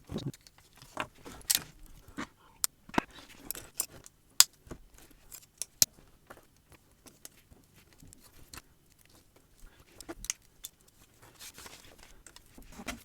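Hard-plastic Lego-compatible building bricks clicking and clattering as pieces are picked through and pressed together, in irregular sharp clicks. The loudest come about four and a half and six seconds in.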